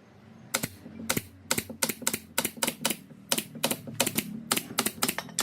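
A quick, uneven series of sharp clicks or taps, about four to five a second, starting about half a second in, over a faint low steady hum.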